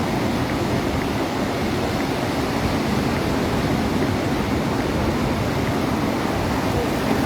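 Steady noise of ocean surf washing on the shore, with a fluctuating low rumble beneath.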